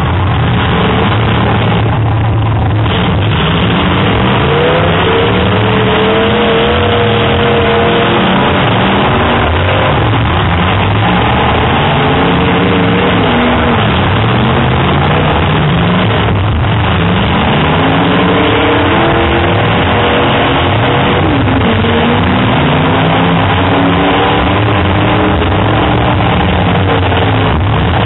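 Several full-size demolition derby cars' engines revving at once, their pitches rising and falling and overlapping over a steady loud din.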